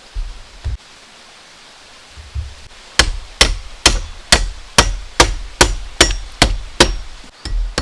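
Steady hammering, a little over two blows a second, starting about three seconds in, each blow with a short metallic ring; a few soft dull thuds come before it.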